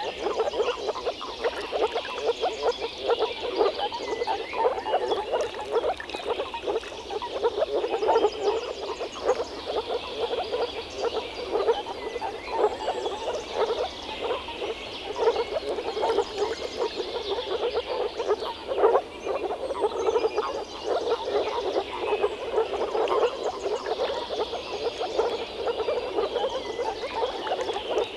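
Chorus of moor frogs (Rana arvalis) calling: many males' short, rapid pulsed calls overlapping in a continuous low chorus.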